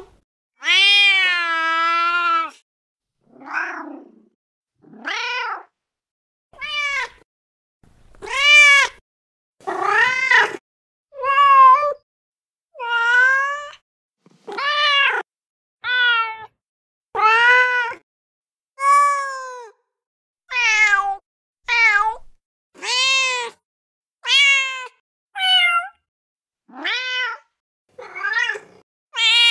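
A string of recorded domestic cat meows from a cat-sounds app, each a separate sample, played one after another with short gaps of silence: about twenty in all. The first, about a second in, is the longest and lowest, a drawn-out meow; the rest are shorter meows that vary in pitch from call to call.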